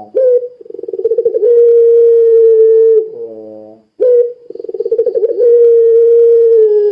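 Puter pelung dove giving its long call twice. Each call rises, breaks into a fast trill, then holds a steady note for about two seconds, and is followed by a short, lower coo.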